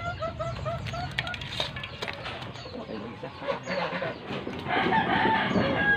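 Bird calls: a quick run of short, slightly rising notes, about six a second, through the first second, with more short calls near the end.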